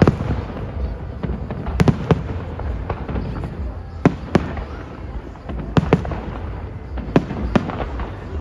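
Fireworks going off: sharp bangs, mostly in pairs about two seconds apart, over a continuous low rumble.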